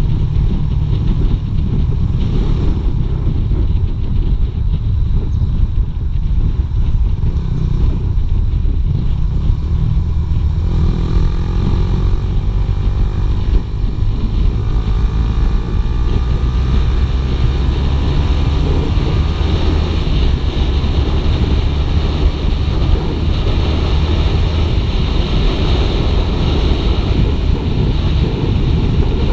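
Suzuki GSX-R 150 motorcycle ridden on the road: heavy wind noise on the action camera's microphone over the drone of its single-cylinder engine. The engine's pitch rises from about eleven seconds in as the bike accelerates, and climbs again a little later.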